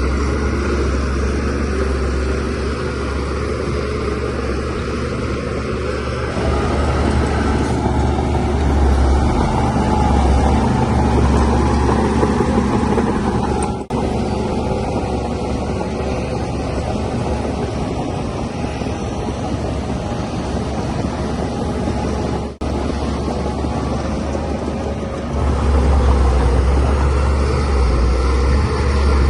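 DH17C3 bulldozer's diesel engine running under load, its low rumble swelling and easing as it pushes soil. There are two very brief breaks in the sound, about 14 and 23 seconds in.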